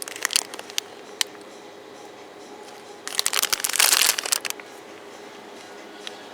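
Plastic packaging crinkling as it is handled: a burst of rustling a little after three seconds, with a few sharp clicks and rustles near the start.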